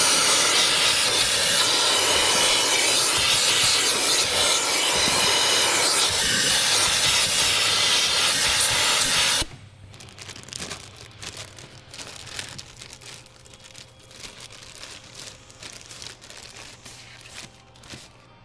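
A loud, steady hiss that cuts off suddenly after about nine and a half seconds, followed by quiet clicks and rubbing of parts being handled.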